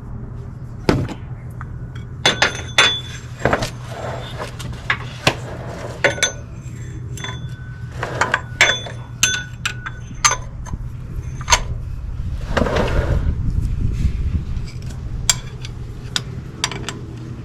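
Metal hand tools clinking and tapping in irregular sharp strikes with brief metallic ring, as a cup-type oil filter wrench, extension and ratchet are fitted to a spin-on oil filter. A steady low hum runs underneath.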